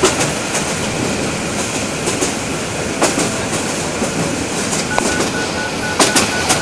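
Passenger train running along the track, heard from on board: a steady rumble with sharp wheel clacks over the rail joints, several in quick succession near the end. A faint high steady tone joins in the last second or so.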